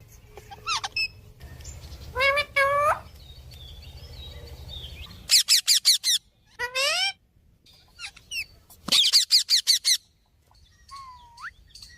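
Pet parrot calling: a few drawn-out, voice-like calls with wavering pitch, and two quick runs of shrill, sharp screeches.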